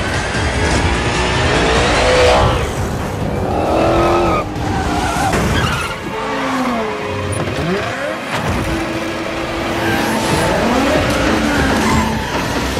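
Car engines revving, their pitch rising and falling several times, mixed with background music.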